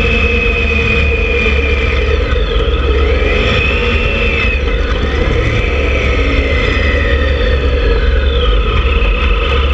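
Motorcycle engine running under way, its pitch rising and falling with the revs, over a steady low rumble of wind on the helmet-mounted camera.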